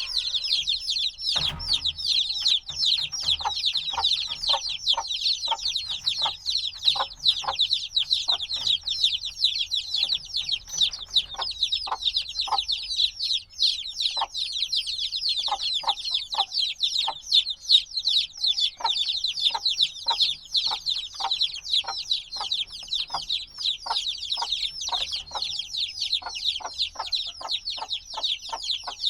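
A brood of chicks a few days old peeping continuously, many high chirps overlapping, each falling in pitch, with shorter, lower notes scattered among them. A low thump about a second and a half in.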